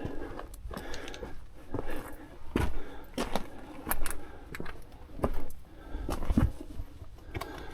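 Irregular scrapes and knocks of boots and hands on rock while climbing down a rock chimney, with a few small sharp clinks.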